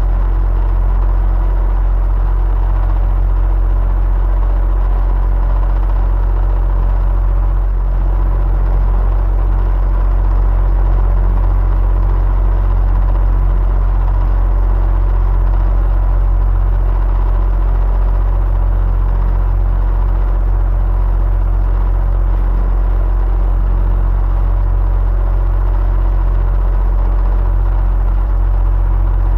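Electric fan running steadily: a deep, even hum with a few faint steady tones above it, unchanging throughout.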